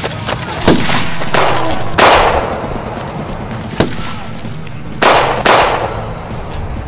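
Gunshots: five loud bangs, each with a ringing tail, and one short sharp crack between them, over background music.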